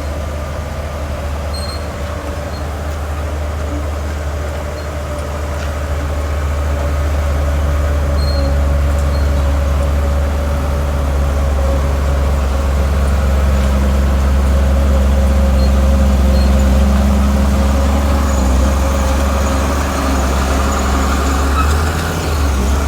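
Heavy diesel engine of earth-moving machinery running steadily under load, with a steady whine above the low drone. It grows louder a few seconds in and stays up.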